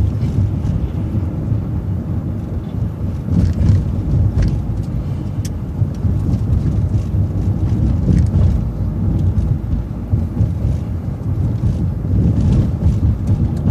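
City transit bus driving along, its engine and tyre rumble heard from inside the coach, with scattered short rattles.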